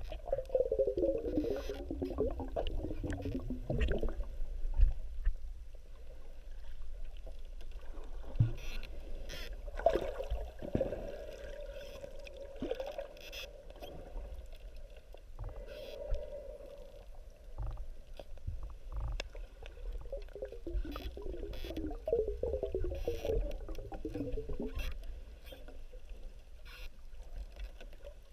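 A boat motor heard underwater: a whine that falls in pitch as it passes, twice, with a steadier hum between, over a low rumble and scattered clicks.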